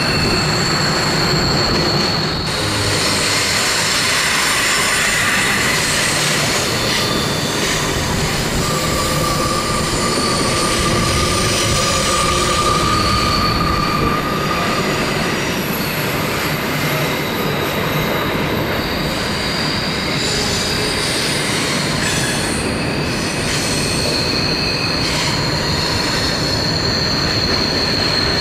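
Covered hopper cars of a Canadian Pacific grain train rolling past on a curve: a steady rolling rumble with high-pitched wheel squeal, several squealing tones rising and fading along the train.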